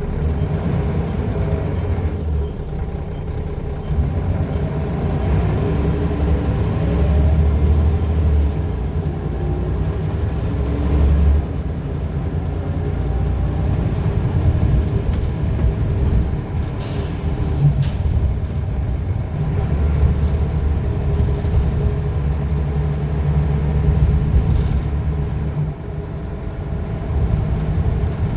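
Scania L94UB bus's diesel engine running and pulling, its note rising and falling in stretches as the ZF automatic gearbox works through the gears. About seventeen seconds in there is a short hiss of released air, such as from the air brakes.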